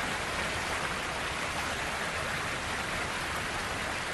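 River water rushing over falls, a steady even hiss with no breaks.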